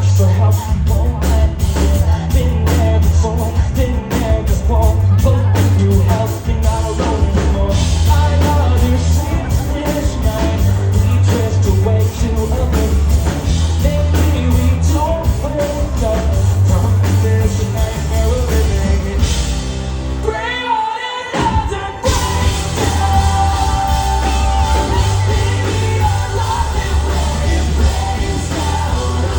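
Rock band playing live with singing over loud drums and bass. About twenty seconds in, the drums and bass drop out for a couple of seconds, then the full band comes back in.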